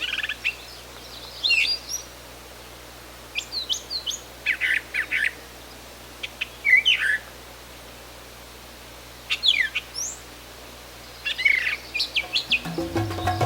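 Brown thrasher singing: short phrases of quick, varied notes, each under a second long, with pauses of a second or two between them. Music comes in near the end.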